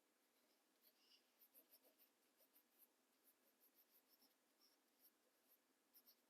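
Near silence, with faint light ticks and rustles of paper being handled.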